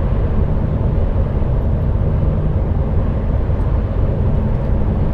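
Steady drone of an HGV lorry cruising on the motorway, with engine and tyre noise heard from inside the cab.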